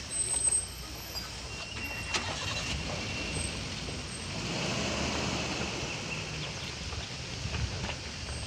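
Vehicle engine running at low revs: a steady low rumble that swells a little around the middle, with a few knocks near the start.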